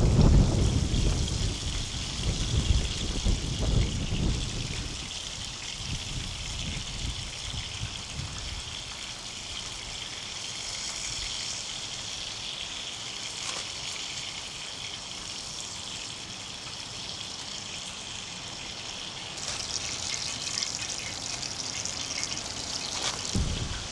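Steady rain, with a low rumble of thunder dying away over the first few seconds. The rain grows heavier near the end.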